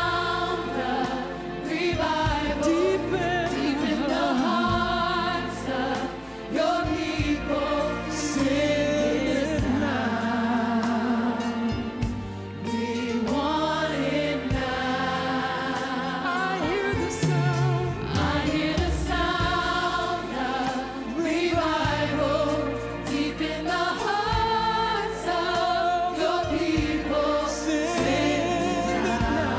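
Church choir singing a gospel song together, with steady low accompaniment notes underneath.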